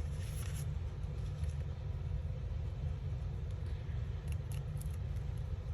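Steady low background rumble with a few faint light ticks of paper and tape handling, near the start and again about four seconds in.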